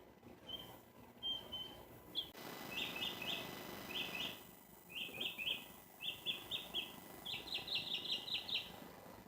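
Small birds chirping: a few single peeps, then quick clusters of short chirps, with the fastest run near the end.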